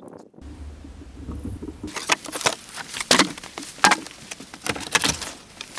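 Irregular sharp knocks and clicks, several a second, with a low hum underneath for about the first second and a half.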